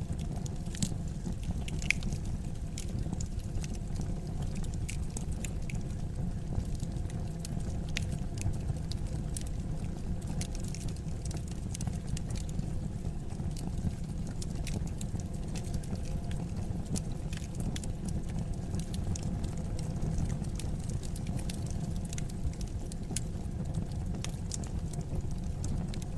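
Wood fire crackling in a fireplace: frequent small sharp pops and snaps over a steady low rumble of burning.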